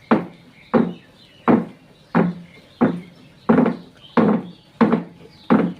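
A steady series of heavy knocks or strikes, about one every three-quarters of a second, each with a short low ring that dies away quickly.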